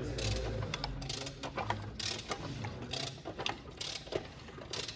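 Socket ratchet clicking in several short runs of strokes, turning the Opel Astra's engine over by hand to check the newly fitted timing chain.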